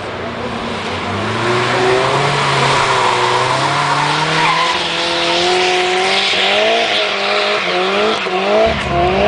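A car engine revving up and down as the car drifts through wet corners, with tyre hiss under it. Over the last few seconds the revs rise and drop in quick repeated sweeps.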